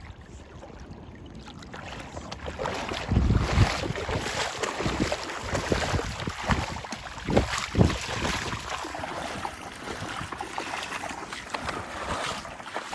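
Wind buffeting the microphone over the rush of water, with louder rumbling gusts about three and seven seconds in.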